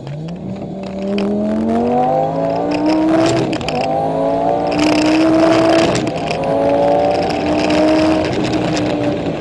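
Twin-turbocharged Lamborghini Gallardo V10 accelerating hard. The engine pitch climbs through the gears and drops back at upshifts, about three and a half and six seconds in.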